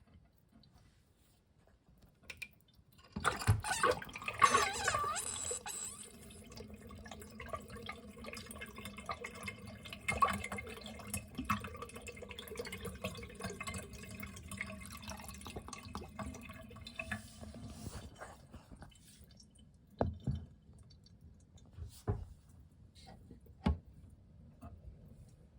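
Miniature toilet flushing: a sudden rush of water about three seconds in, then water running on more quietly for about fifteen seconds before it fades out. A few separate knocks follow near the end.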